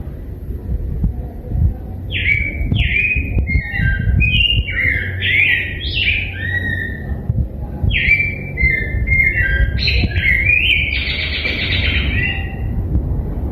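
Rose-breasted grosbeak singing two long warbled phrases of quick, rising and falling whistled notes. The first phrase starts about two seconds in, the second about eight seconds in. A low rumble runs underneath.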